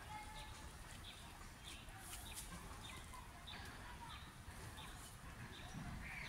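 Faint outdoor ambience: birds calling in short, repeated chirps over a low steady background rumble.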